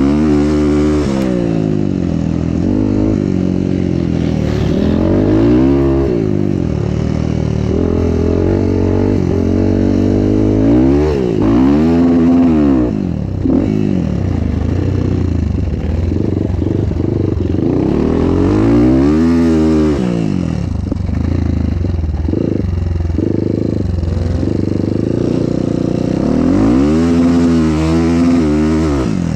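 Motocross bike engine under way, revving up through the gears and dropping back, the pitch climbing and falling about five times.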